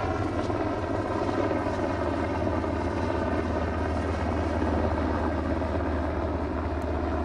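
A motor running steadily, a constant droning hum with an even pitch.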